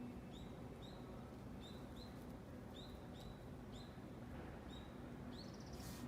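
A bird chirping: short, high notes repeated about twice a second, with a slightly louder call near the end.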